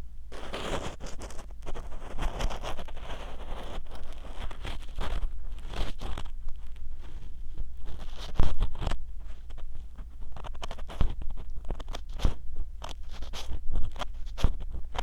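Ear cleaning on a binaural 3Dio dummy-head microphone: close, dense scratching and crunching of a tool working in the mic's ear. A few louder scrapes stand out, the loudest about eight and a half seconds in.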